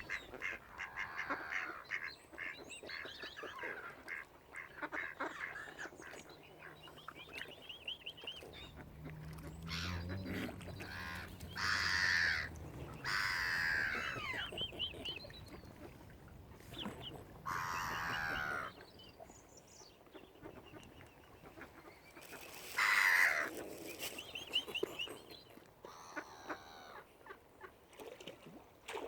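Waterfowl calling: many short calls throughout, with several loud drawn-out calls that fall in pitch, about twelve, fourteen, eighteen and twenty-three seconds in.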